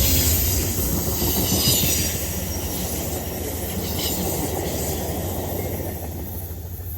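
Amtrak passenger train hauled by P42DC diesel locomotives going by, its rumble and the hiss of the passing cars fading steadily as it moves away.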